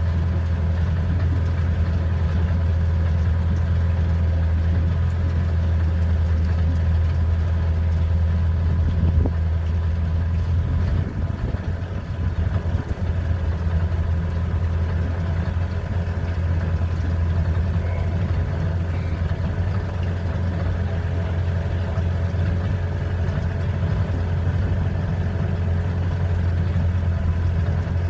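Boat engine running steadily, a constant low hum that dips briefly about eleven seconds in.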